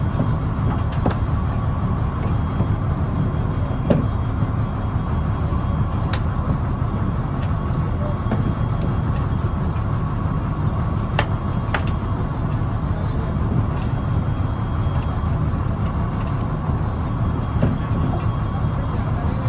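Fishing trawler's diesel engine running steadily, a constant low rumble, with a few faint clicks.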